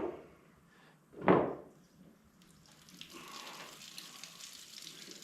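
A single short thump about a second in, then coolant draining out of a Ford 8N tractor engine in a steady stream, a faint continuous splashing hiss from about halfway through.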